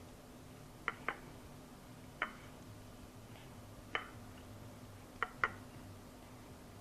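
Light, sharp clicks and taps, single and in pairs, of a pie plate and dish being touched while a chicken breast is pressed into its flour and Parmesan coating by hand.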